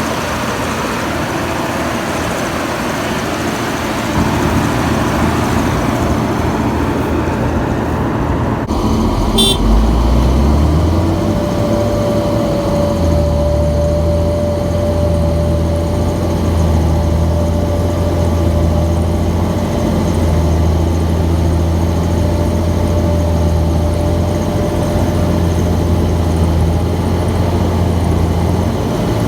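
Heavy diesel farm machinery running during maize chopping. About ten seconds in, the engine note climbs and settles into a steady low drone, with a steady whine above it.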